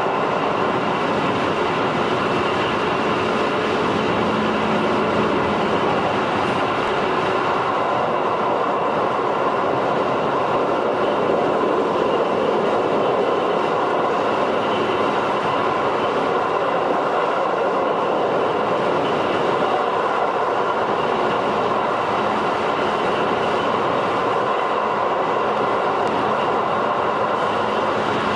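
A 211 series electric multiple unit running at a steady speed, its wheels and rails making a continuous rumble and hiss, heard from inside a passenger car.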